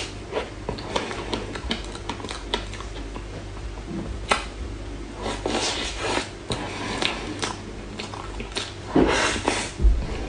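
Close-miked eating-show sounds: scattered light clicks and taps of a utensil against a dessert container, with a few short louder rustles.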